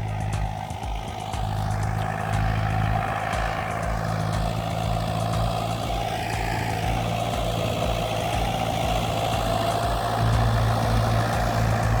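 Old Kubota tractor's engine running steadily at an even speed, with a low, pulsing hum.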